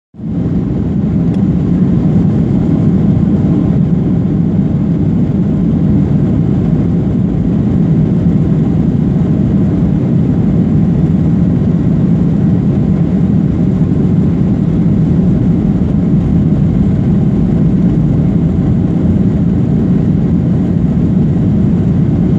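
Airliner jet engines running, a loud, steady low rumble that holds even throughout with no rise or fall.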